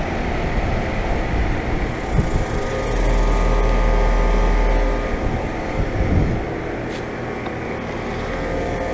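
Carrier 38CKC central air conditioner condensing unit running: a steady hum of compressor and condenser fan with several steady tones over a whooshing noise. A deeper low rumble swells for about two seconds in the middle.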